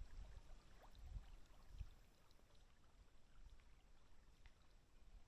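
Near silence: faint outdoor ambience with a couple of soft low thumps in the first two seconds.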